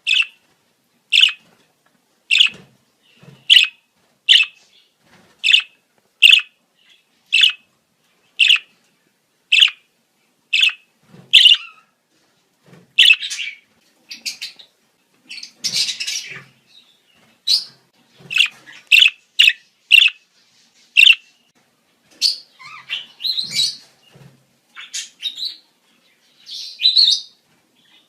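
Budgerigars calling in breeding-season chatter: short, sharp chirps about one a second, turning busier and overlapping in the second half.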